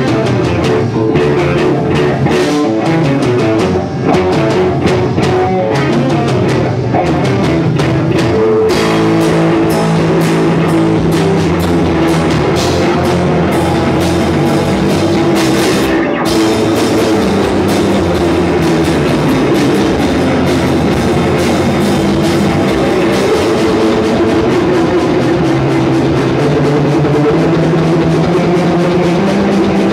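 Rock music played on drum kit and guitar, loud and continuous.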